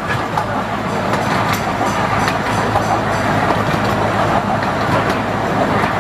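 Yellow Rose Express zoo train running along its track: a steady rumble with a low hum and irregular clicks from the wheels on the rails.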